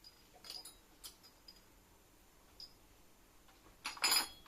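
A few light, sharp clicks and taps, then a louder short rattling clatter of about half a second near the end, like objects being handled.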